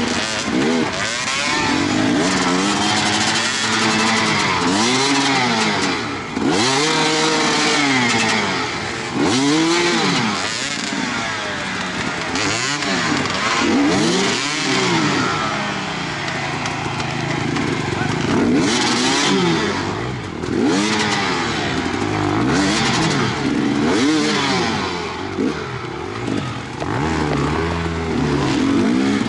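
Enduro motorcycle engine heard up close from on board, revved hard and backed off over and over as the bike picks its way over rocks, logs and mud. The pitch rises and falls about once every second or so, with short drops in loudness between pushes.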